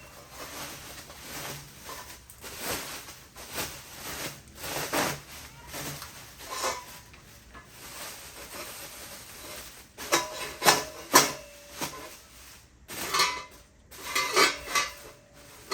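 Thin-walled Mazda RX-8 exhaust pipe being handled, with scattered light metallic knocks and rubbing. Louder clanks with a brief ring come about ten seconds in and again near the end.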